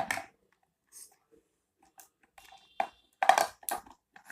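Irregular crackles and clicks of packaging being handled and opened, with a denser run of crackles about three seconds in.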